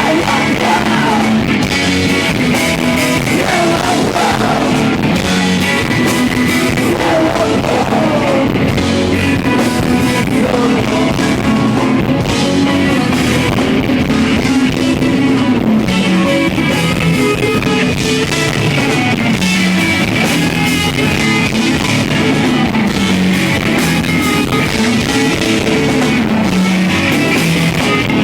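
A rock band playing live: electric guitars and drums, with some singing.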